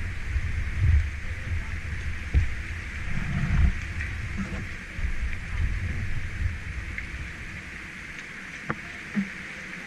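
Steady rush of water from a waterfall, with uneven low rumbling on the microphone that dies away near the end and a couple of short knocks.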